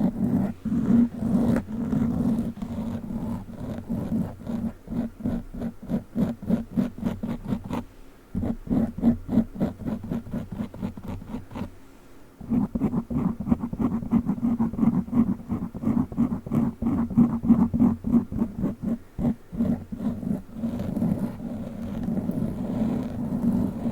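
A plastic witch-finger fake fingertip rubbing and scratching fast over a foam microphone cover, close to the mic, with a deep rumble under rapid, even strokes. The strokes pause briefly about a third and half of the way through.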